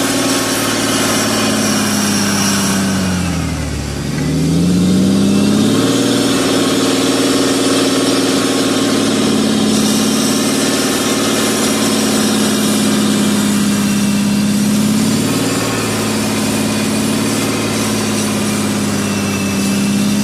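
Car engine running steadily. Its pitch sags about three seconds in and climbs back up a couple of seconds later, then sits slightly lower for several seconds in the middle before returning.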